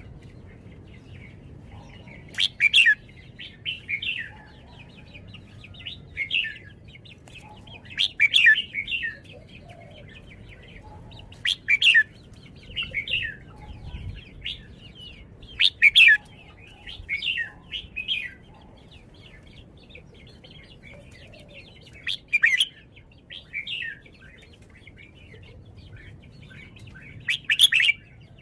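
Red-whiskered bulbul singing: short loud, bright song phrases repeated every few seconds, each opening with a sharp note and trailing off into quieter notes.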